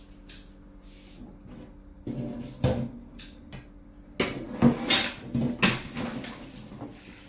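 Kitchen clatter: a few irregular knocks and bangs, a pair about two seconds in and a denser run from about four to six seconds in, over a steady low hum.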